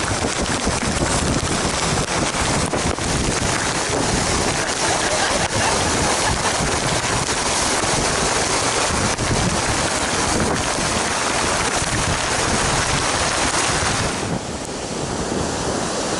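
Whitewater of a Colorado River rapid rushing and splashing around a raft as it runs through, with wind buffeting the microphone. The noise is loud and steady, easing for a moment near the end.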